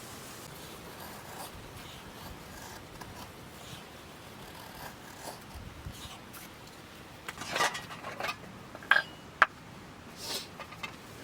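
Camp cookware and utensils being handled: scattered rustling and clatter, with two sharp metallic clinks about nine seconds in, over a steady hiss.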